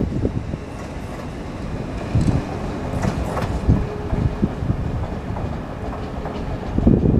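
LNER Class 801 Azuma electric train running out past the platform, its wheels clattering irregularly on the track under a steady low rumble as the last carriages and the rear cab go by.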